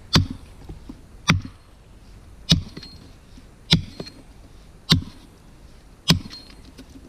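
Axe chopping into wood: six sharp, evenly spaced strokes, about one every 1.2 seconds.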